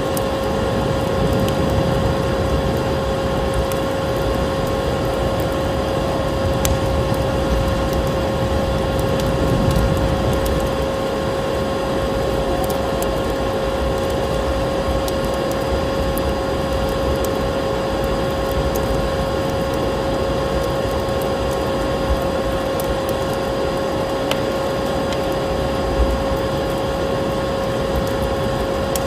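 Vacuum cleaner motor running steadily, a constant whine over a low rumbling rush of air, with a few faint clicks.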